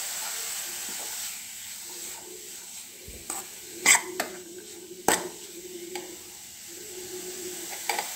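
Grated carrot frying in ghee in a metal pan, a soft steady sizzle, while a steel spoon stirs and scrapes it. The spoon clinks sharply against the pan a few times, loudest about four and five seconds in and again near the end.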